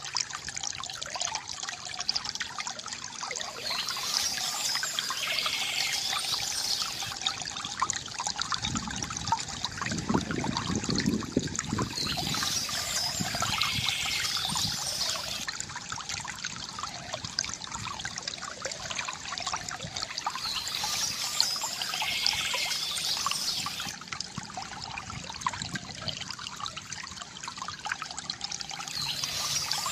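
Water trickling and pouring steadily from a bamboo fountain, with a fuller, deeper gurgle about nine to twelve seconds in.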